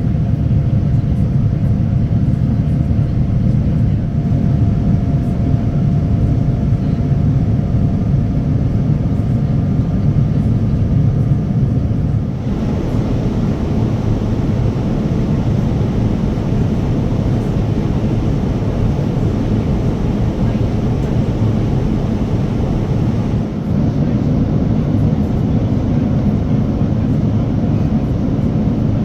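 Steady low rumble of a Boeing 787-9 airliner's engines and airflow heard inside the cabin. The sound changes abruptly twice, about twelve and twenty-three seconds in, where the footage is cut.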